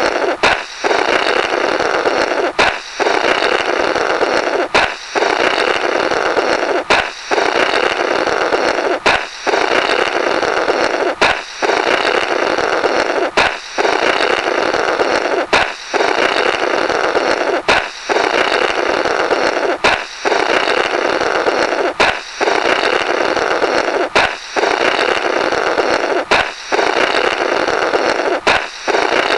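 Comical 'blorrrt' balloon sound effect: a sharp balloon pop, then about two seconds of raspy blowing through the burst rubber. It repeats in a loop about every two seconds, some thirteen times.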